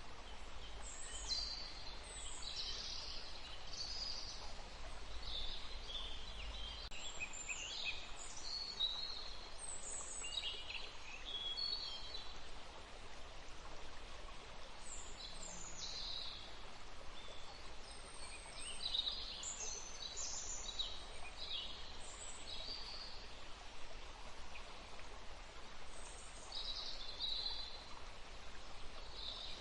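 Songbirds singing and chirping in many short phrases over the steady rush of a forest stream, with a lull in the birdsong about halfway through.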